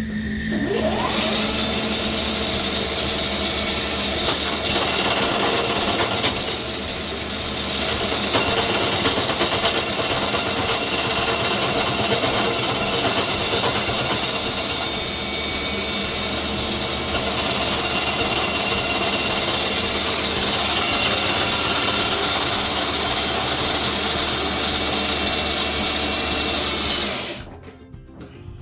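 A machine tool spins up with a rising whine, then runs steadily, cutting metal from the combustion chamber of a factory VW cylinder head for a hemi cut. It stops abruptly near the end.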